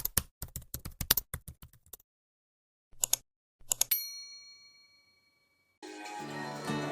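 Keyboard typing sound effect: a quick run of clicks for about two seconds, then a few more clicks, then a bright ding that rings out and fades. Background music starts near the end.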